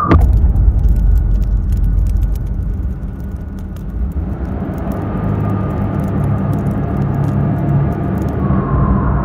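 Low rumbling of a motor vehicle, opening with a sudden hit and crackling clicks over the first few seconds, then settling into a steady low hum.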